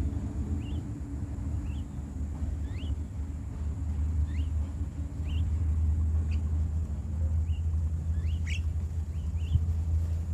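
Short, high, upward-sweeping bird chirps, repeated about once a second and a little busier near the end, over a loud, steady low rumble.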